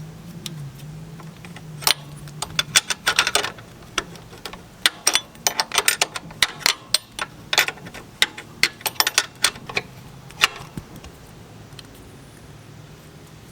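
Ratchet wrench clicking in quick runs, with metal tool clinks, as the loose ground cable bolt on a 1975 Honda CB550 is tightened.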